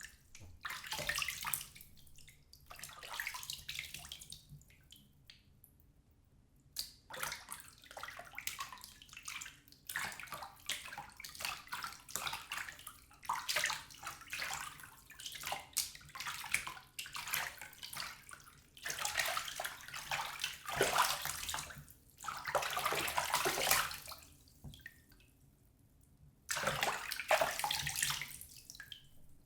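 Bathwater sloshing and splashing in a bathtub as a person moves in the bath, in irregular bursts with quieter pauses between them.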